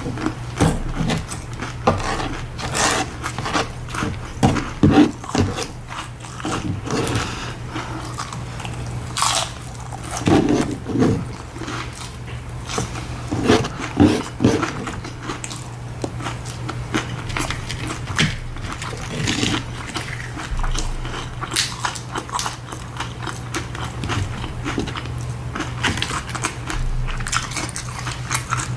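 Close-miked eating of tacos: irregular biting, crunching and wet chewing sounds, busiest in the first half, over a steady low hum.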